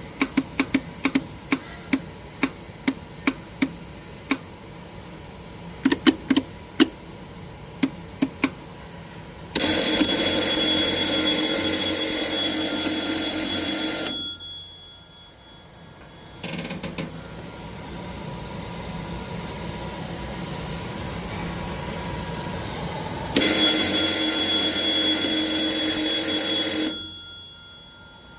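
A run of sharp clicks for about nine seconds, then an electric alarm sounder rings loudly for about four and a half seconds. A quieter steady hum follows, then the alarm rings again for about three and a half seconds, during testing of a hydraulic truck loader control panel.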